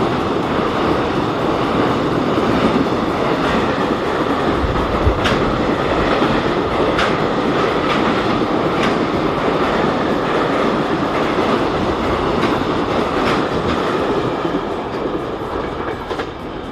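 Freight train rolling past, a steady rumble of wagons with a sharp wheel click over the rail joints about every two seconds, fading near the end.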